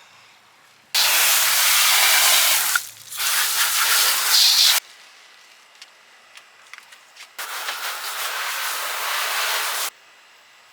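Water spraying from a hose nozzle onto the car in three bursts, each switched on and cut off abruptly, the first two about two seconds long and the last about two and a half.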